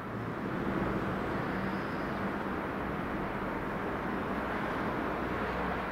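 Steady low rumble of vehicle noise with a faint hum, running evenly.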